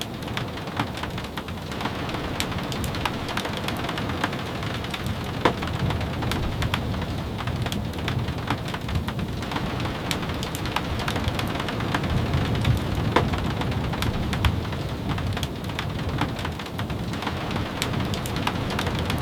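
Steady rain with many scattered sharp drips and taps, over a low rumble that swells about twelve seconds in.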